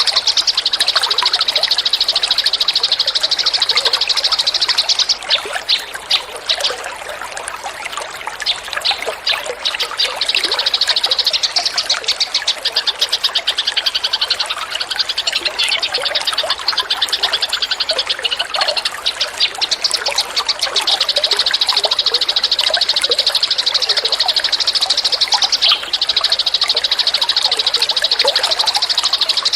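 A recorded songbird giving a long, rapid, high-pitched buzzy trill of the kind played as masteran for training cage songbirds. Between about five and eleven seconds in, the trill breaks into separate sharp chips before running on again.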